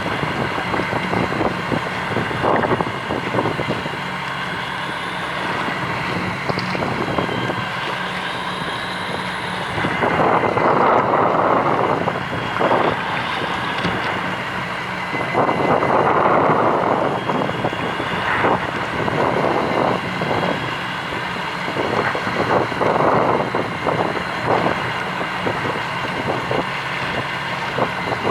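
Fishing boat's engine running steadily, with wind buffeting the microphone; the wind gusts louder twice, about ten and sixteen seconds in.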